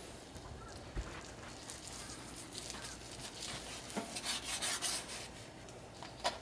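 Rustling and crackling handling noise with a few light knocks. The rustling is densest about four to five seconds in, and the sharpest knock comes near the end.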